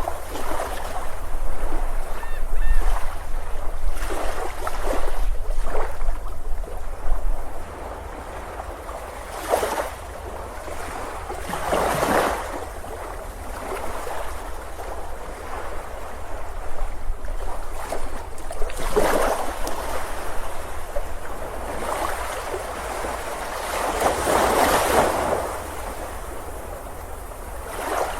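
Ocean surf breaking and washing up a beach, swelling every few seconds. In the first few seconds, wind rumbles on the microphone.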